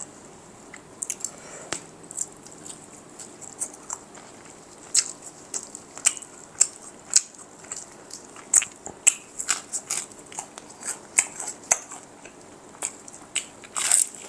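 Close-miked chewing and biting of crispy fried chicken, the breading crunching in quick, sharp crackles. The crackles come thicker from about halfway, with one bigger crunch near the end.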